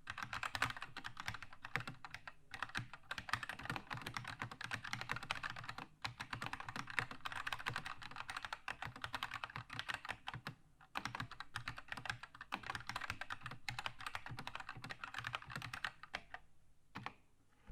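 Keychron K2 mechanical keyboard with red linear switches being typed on quickly and steadily, with a few brief pauses, thinning out to a couple of last keystrokes near the end.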